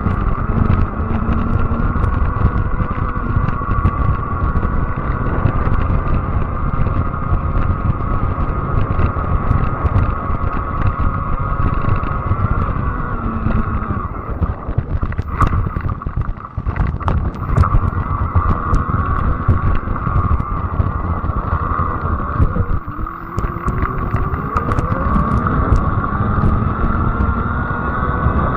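Fat-tire electric bike riding along: a steady high whine from the bike in motion over a low rumble of wind on the microphone, with a cluster of clicks and knocks about halfway through. The whine rises a little near the end as the bike picks up speed.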